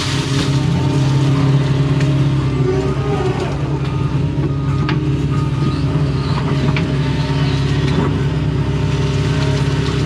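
Doosan excavator's diesel engine running steadily as the machine works, with a few short clicks and knocks here and there.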